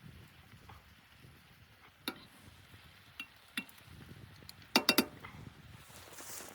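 A few sharp clicks and light clinks of hard objects, then a quick run of three louder clicks about five seconds in.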